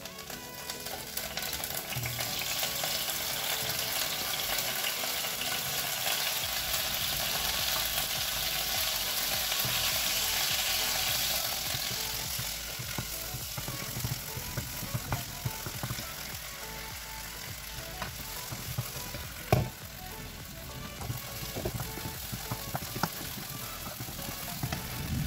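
Curry paste sizzling as it fries in hot oil in a nonstick wok, loudest in the first half and easing later. A wooden spatula scrapes and taps the pan as the paste is stirred, with one louder knock about two-thirds through.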